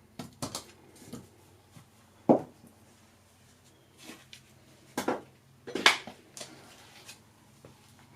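Irregular metallic clanks and knocks of hard parts being handled or struck, two of them much louder, over a faint steady hum.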